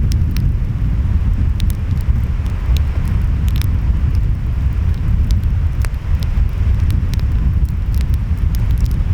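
Wood fire crackling, with frequent sharp pops and snaps, over a steady low rumble of surf and wind.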